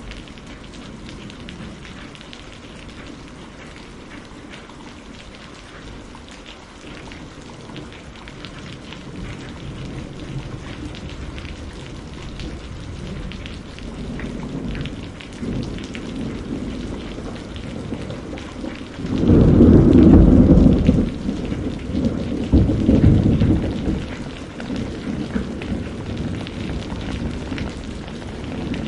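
Steady rain falling with rolls of thunder. Low rumbles build about halfway through, then a loud clap of thunder breaks suddenly and rolls on for a few seconds, followed by more rumbling.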